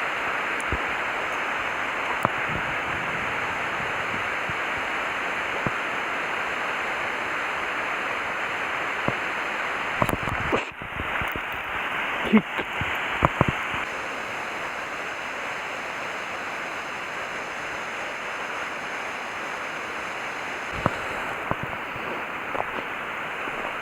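Steady rush of a flowing stream, with a few light clicks and knocks about twelve seconds in and again near the end.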